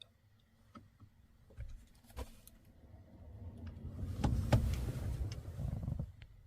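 A car driving past outside, heard from inside a parked truck: a low rumble that swells to a peak about four and a half seconds in and fades away, with a few faint clicks before it.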